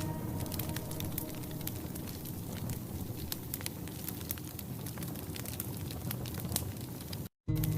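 Campfire burning with frequent sharp crackles and pops over a soft hiss. The sound drops out completely for a moment near the end.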